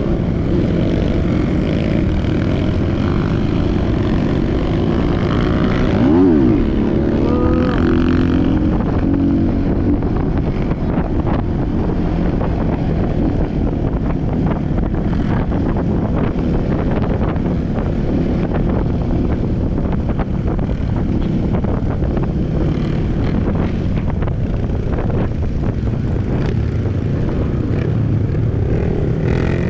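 Trail motorcycle engine running steadily while riding off-road, its pitch rising and falling briefly about six seconds in.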